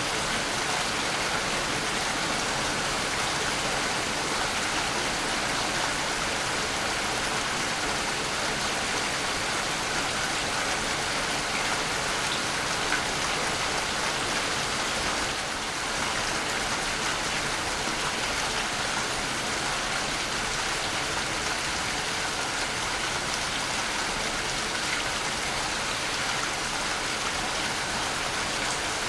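Waterfall: a steady rush of falling, splashing water, dipping slightly for a moment about halfway through.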